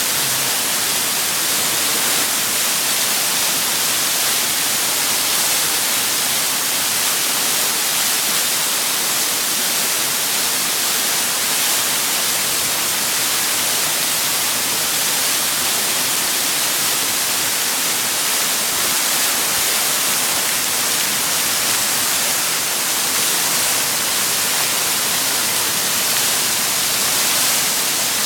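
Waterfall heard close up: a steady, loud hissing rush of falling water that does not change.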